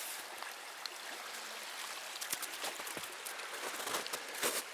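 Creek water running steadily down a partly frozen waterfall, an even rushing hiss, with scattered short clicks and knocks in the second half.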